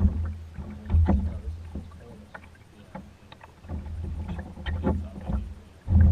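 Kayak being paddled through floodwater: irregular paddle splashes and knocks against the hull, with heavy low rumbling thumps about a second in and again near the end.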